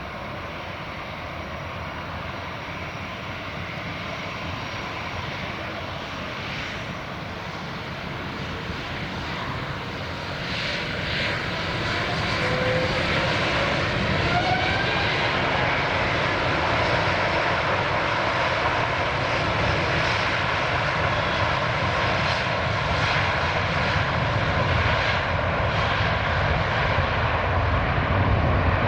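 Airbus A350-900 jet engines, Rolls-Royce Trent XWBs, running at takeoff power. The noise swells markedly about ten seconds in, then holds steady, with a faint rising whine as it grows.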